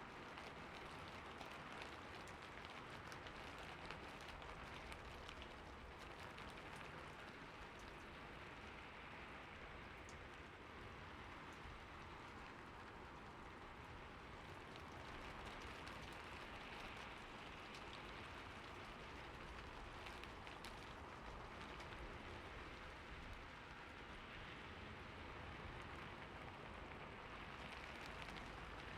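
Steady rainfall: an even hiss of rain with many small drops pattering throughout.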